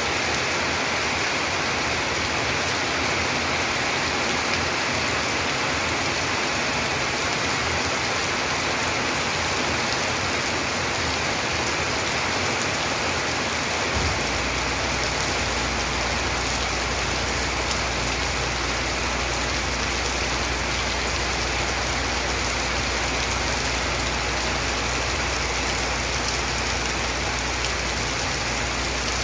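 Heavy rain falling steadily, an even hiss of water on surfaces. A low steady rumble joins about halfway through.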